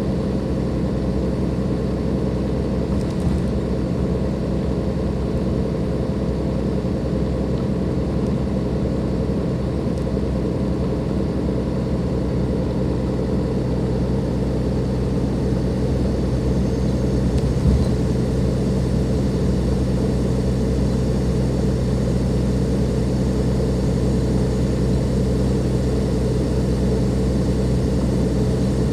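Cummins ISLe six-cylinder diesel engine of a Dennis Enviro 500 double-decker bus running at a steady, unchanging speed, heard from on board. A faint high whine fades away about halfway through, and there is a single brief knock near the two-thirds mark.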